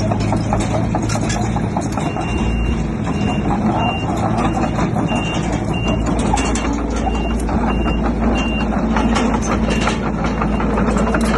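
Heavy diesel earthmoving machinery running steadily, with scattered metallic clanks. A reversing alarm beeps over it again and again from about two seconds in until near the end, as a machine backs up.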